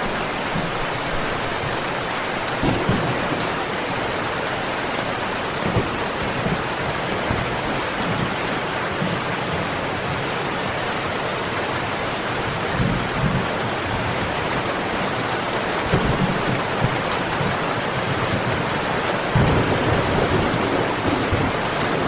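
Steady rain with low rumbles of thunder every few seconds, the biggest rumble starting a little before the end.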